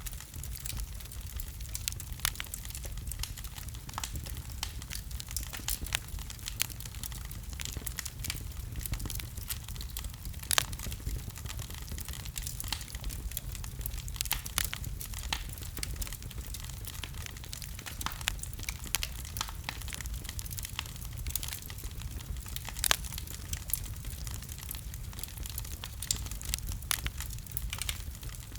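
Wood fire burning in a fireplace, crackling with many small irregular snaps over a steady low rumble, and a few louder pops.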